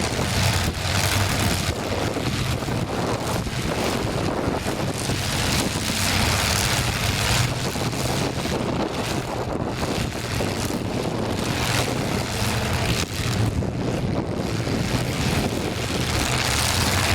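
Demolition derby car engines running as a steady low hum, mixed with wind buffeting the microphone. The noise swells a couple of times.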